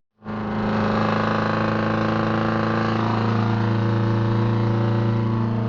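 Straight-piped Detroit Diesel 8V71 two-stroke V8 running steadily at a constant speed, cutting in abruptly after a split-second silence.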